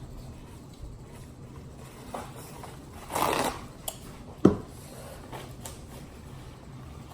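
Small handling noises during a meal of boiled eggs in sauce: a short burst of noise about three seconds in, a click, then a sharp knock about a second later, the loudest sound, over a steady low room hum.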